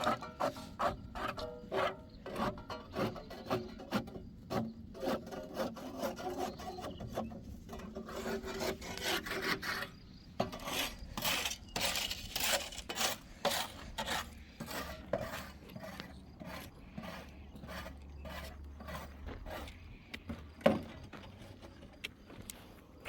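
Repeated rasping, scraping strokes, about two a second, as of something being rubbed or scraped by hand, with one sharp knock near the end.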